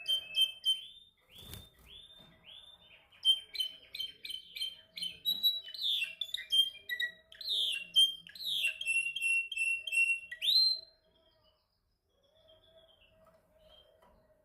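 Canary singing a fast run of trills and repeated downward-sweeping notes, which stops a little over two-thirds of the way in, leaving only faint notes. A single knock sounds about a second and a half in.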